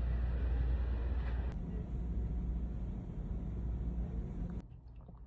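Steady low rumble of road and engine noise inside a moving car, broken by a couple of abrupt edit cuts, then dropping to quieter room tone near the end.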